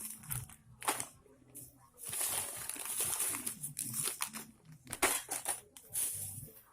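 Glasswool exhaust packing being handled, crinkling and tearing in stretches of hiss, with a few sharp clicks.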